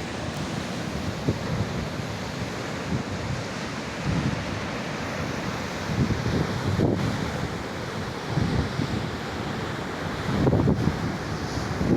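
Wind buffeting the microphone over the steady rush of surf on a beach, with stronger gusts near the end.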